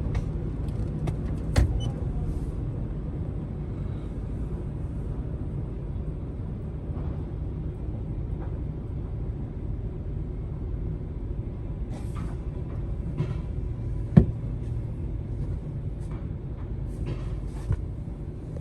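Steady low rumble of a car with its engine running, with scattered clicks and knocks; the sharpest knock comes about 14 seconds in.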